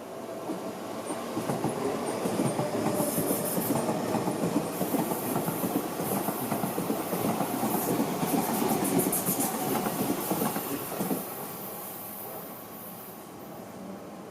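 A Seibu Ikebukuro Line train passing, its wheels clacking rapidly over the rail joints. The noise swells about a second in and dies away after about eleven seconds.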